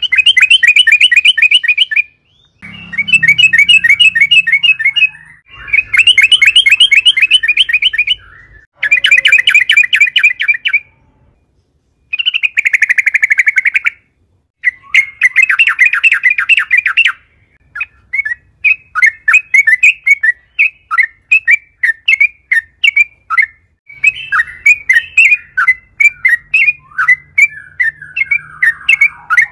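Yellow-vented bulbul (trucukan) singing loudly in rapid chattering phrases of about two seconds each, separated by short pauses. In the second half it changes to a steady run of separate short chirps, a few a second.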